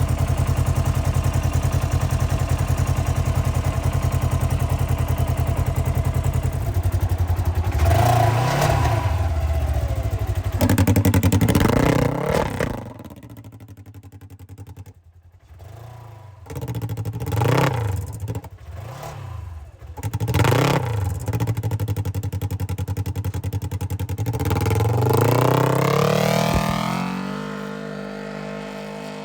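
Polaris RZR XP1000 side-by-side's engine running through a 2.5-inch stainless exhaust with an electronic dump valve. It idles loudly, with a quick rev and a held higher rev in the first half. It then drops to a quieter idle, with several short throttle blips and one longer rev up and back down near the end.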